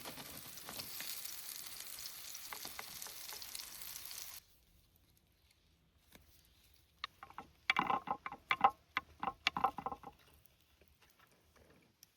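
Food sizzling in a frying pan, cutting off abruptly a little over four seconds in. A few seconds later comes a short run of sharp, crisp clicks and crackles.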